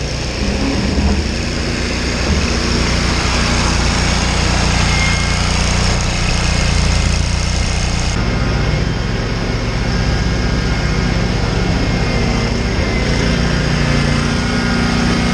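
An engine running steadily, with a small change in its sound about eight seconds in.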